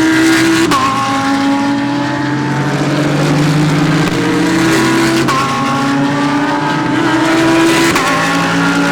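GT3 race car engines running hard, their pitch holding steady and then dropping suddenly several times at gear changes, with more than one car heard at once.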